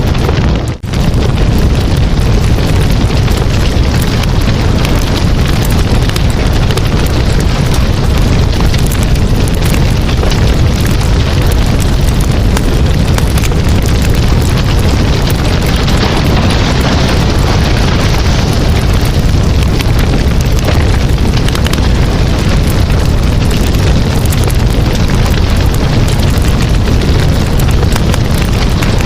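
Campfire burning: a steady rush of flame noise thick with crackles and pops. There is a brief drop in the sound under a second in.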